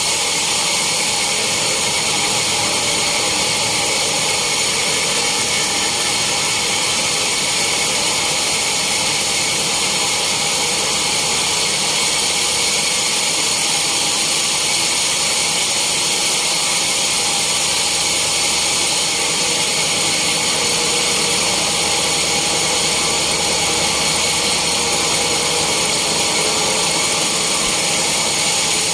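Sawmill saw cutting a teak log: a steady, high-pitched whine over a strong hiss, unbroken throughout.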